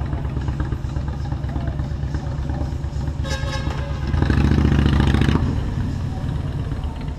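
Motorcycle engine running steadily while riding in city traffic. A vehicle horn toots briefly about three seconds in, then a louder low engine rumble swells for about a second and fades.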